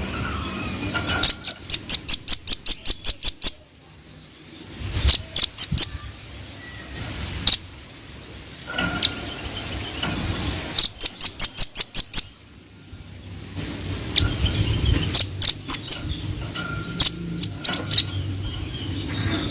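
Velvet-fronted nuthatch calling: rapid runs of sharp, high chips, about five a second. Two runs last about two seconds each, with scattered shorter bursts of calls between them.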